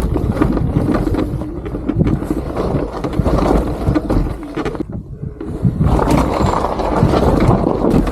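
Ride noise from a Talaria Sting R electric dirt bike going off-road: a steady rush with rattles and knocks from the tyres and chassis over rough ground. It dips briefly about five seconds in, then comes back louder.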